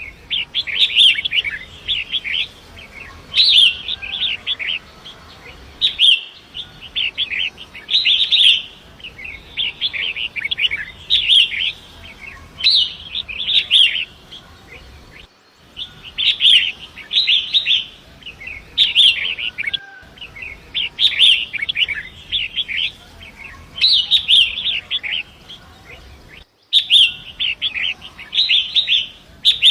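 Long-tailed shrike (pentet) singing: short bursts of harsh, scratchy chattering notes repeated every second or two, over a faint steady rush of flowing river water. The recording drops out for an instant a few times.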